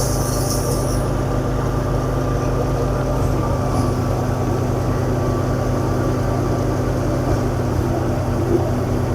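Tractor-driven wheat thresher running steadily: the tractor engine's low drone drives the threshing machine, with a thin steady whine above it. The low note takes on a throbbing pulse about three seconds in.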